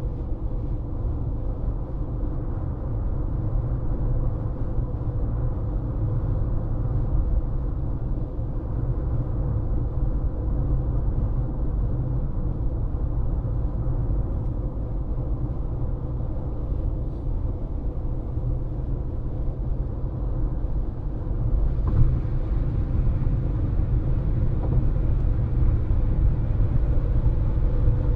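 Steady road and tyre rumble of a moving car, heard inside the cabin, with a faint steady hum. About three-quarters of the way through there is a single bump, after which the noise turns hissier.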